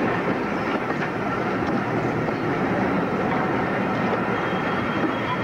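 Passenger coaches of a train rolling past at close range: a steady rumble of wheels on the track, with a faint high whine near the end.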